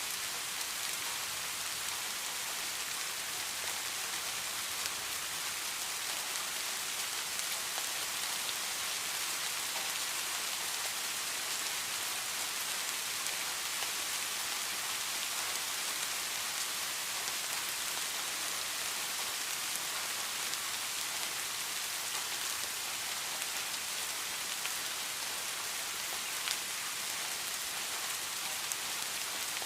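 Steady rain hissing evenly, with individual drops ticking now and then.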